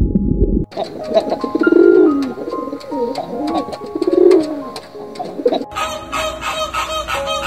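Rock pigeon cooing: two low, bending coos about two seconds apart. Background music plays briefly at the start and comes back near the end.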